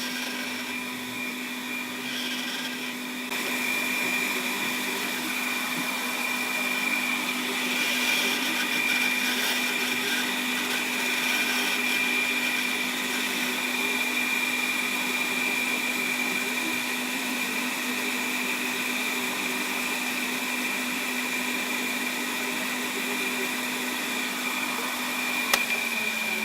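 Small lathe's electric motor running with a steady whine. A rougher hiss joins about three seconds in. Near the end there is a click, and the pitch starts to fall as the machine is switched off and spins down.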